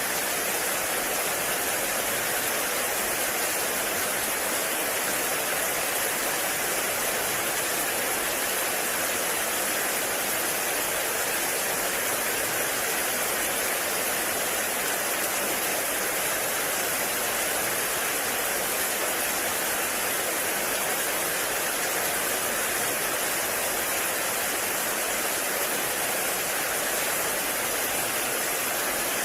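Heavy rain falling steadily, a dense, even hiss with no single drops, thunder or other events standing out.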